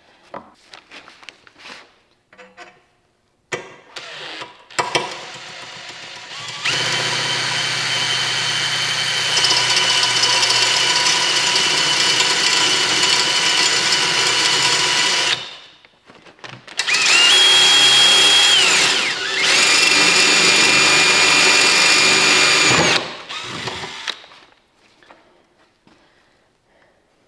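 Handheld power tool motor running in three bursts: a long steady run of about eight seconds, a short run that spins up and winds down, then another steady run of a few seconds. Light handling clicks before and after.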